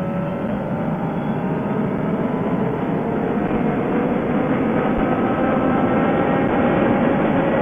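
2013 Suzuki GSX-R600's inline-four engine through a CSRacing full exhaust, pulling under way with its pitch slowly rising and getting gradually louder, under a heavy rush of riding noise.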